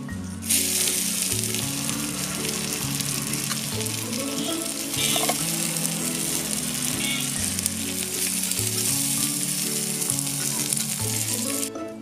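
Chopped onions and tomatoes sizzling as they fry in hot oil in a small kadai. The sizzle starts suddenly about half a second in and cuts off near the end.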